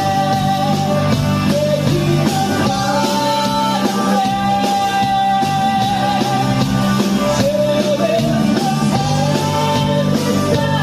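Loud rock music with singing and guitar, steady throughout, with long held, wavering notes.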